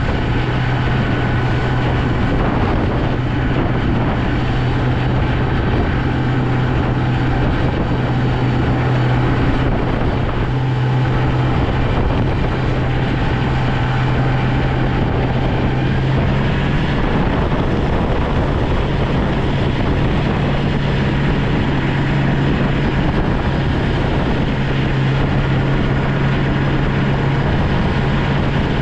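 Engine of a snow-plow vehicle running steadily under load, a constant low drone over a continuous rumbling wash.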